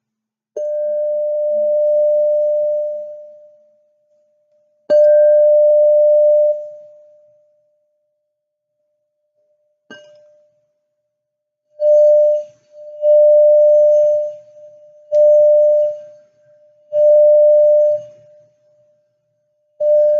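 A crystal singing bowl sounding one steady pure tone. It rings long after notes about half a second and five seconds in, and briefly near ten seconds. It then sounds in a run of shorter, evenly loud notes every second or two through the second half.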